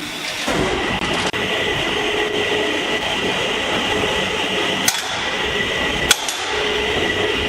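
Pallet production line machinery running with a steady mechanical noise and a faint whine. Two sharp clicks come about a second apart past the middle.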